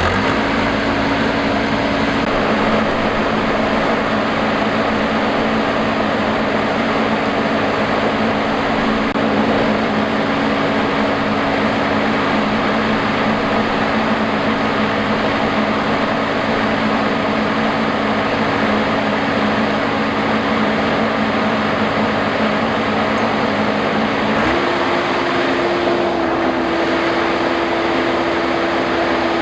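Combine harvester running steadily under load. The engine note steps up in pitch just after the start and again about five seconds before the end, over a steady mechanical noise.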